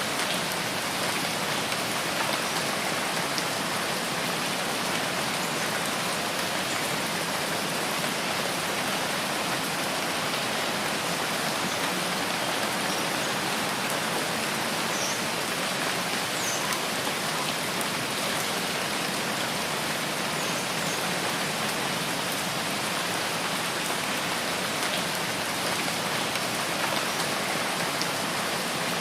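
Steady rain falling without let-up, an even hiss of countless drops.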